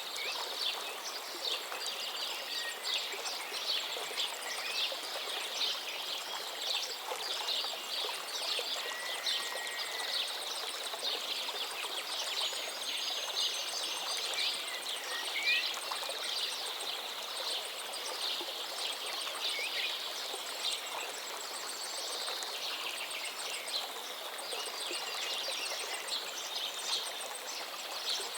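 Stream water running steadily, with many small birds chirping continuously over it and a few clearer whistled notes, one about nine seconds in and another about fifteen seconds in.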